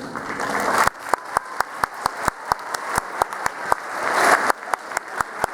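Audience applauding after a performance. From about a second in, one pair of hands close to the microphone claps sharply and evenly, about four claps a second, over the general applause, which swells again near the end.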